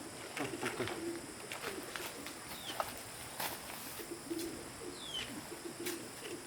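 Birds calling: a dove's low cooing in short phrases, a few short high chirps that fall in pitch, and scattered sharp taps or clicks.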